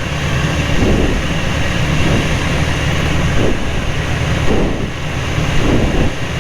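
Carbon Cub's piston engine and propeller running steadily at approach power, with wind noise over the cabin.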